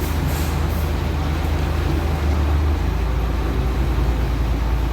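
Heavy truck diesel engine running steadily with a low drone, with a few short hisses near the start.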